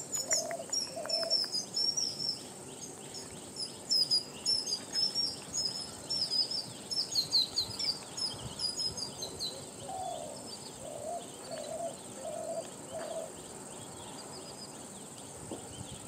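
Wild birdsong: a rapid run of short, high, falling chirps for the first nine seconds or so, with a few lower repeated notes near the start and a short series of five from about ten seconds in. A steady high insect drone sounds underneath.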